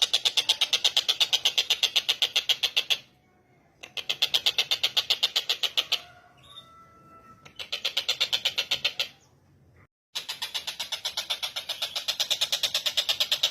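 Tengkek buto kingfisher giving its rapid rattling call, about ten notes a second, in four bouts broken by short pauses.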